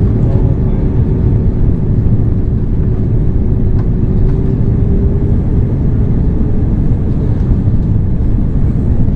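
Airliner cabin noise on approach: a loud, steady low rumble of engines and airflow, with a thin steady tone that fades out about halfway through.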